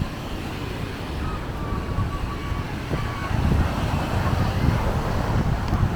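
Wind buffeting the microphone over surf washing onto a sandy beach, the rumble growing louder about halfway through. A few faint thin whistle-like tones sound early on.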